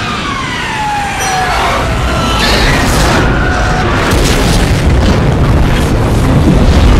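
Jet airliner crash in a film sound mix: a loud whine falling in pitch over the first two seconds, then a low rumble with crashing noise that builds to its loudest near the end.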